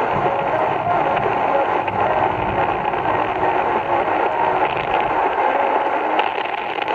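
AM radio receiver tuned to 1080 kHz, giving a steady rushing hiss of lightning static, with a few sharper crackles near the end.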